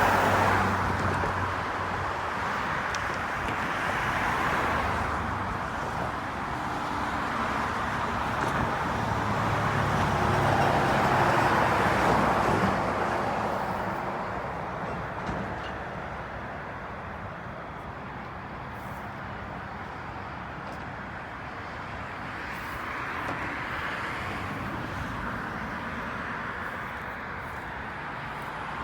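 Road traffic: the noise of cars passing, swelling and fading a few times in the first half, then a lower steady hum.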